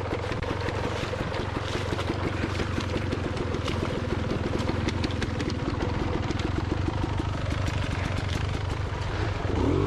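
Beta Xtrainer 300 dirt bike's two-stroke engine running steadily at low revs, rising in pitch briefly near the end.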